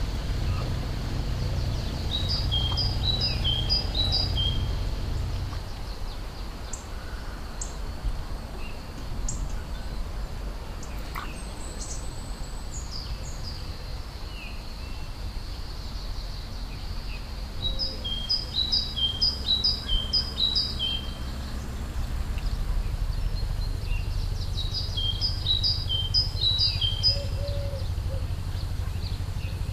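A songbird sings three bouts of quick, short descending notes, near the start, past the middle and near the end, with fainter chirps between, over a steady low outdoor rumble.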